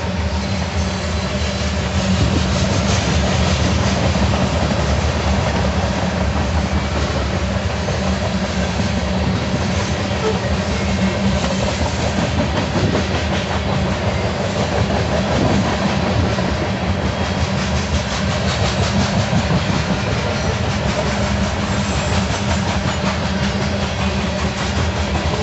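Covered hopper cars of a freight train rolling past on steel wheels: a steady, loud rumble and clatter of wheels on the rails.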